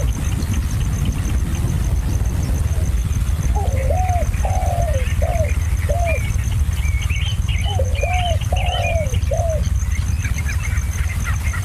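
Bird calls: two bursts of four or five short, arched notes, one a few seconds in and another past the middle, with higher, quicker chirping around and after them, over a steady low rumble.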